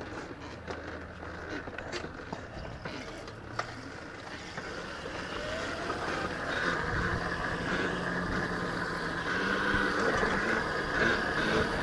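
Electric dirt-bike-style e-bike running, its motor whining with wind and road noise, the whine rising in pitch around five seconds in and growing louder through the second half.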